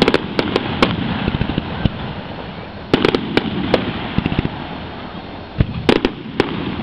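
Fireworks exploding over the water: a run of sharp bangs and crackles, bunched about three seconds in and again near the end, over a steady rumbling haze.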